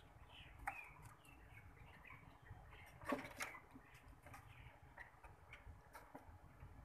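Faint background birdsong: short chirping notes that rise and fall, with scattered soft clicks and one louder knock about three seconds in.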